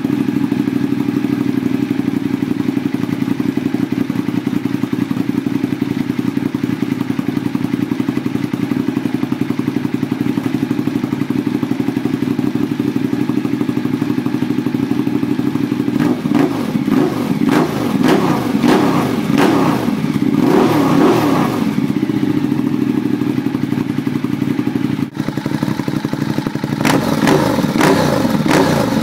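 Ducati Diavel's V-twin engine through a newly fitted Comp Werkes aftermarket exhaust, idling steadily for about sixteen seconds, then revved in a run of quick throttle blips, a short pause, and a few more blips near the end.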